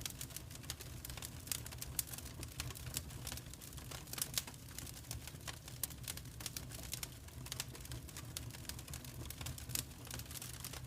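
Wood fire crackling, with many irregular small snaps and pops over a steady low rumble of the burning.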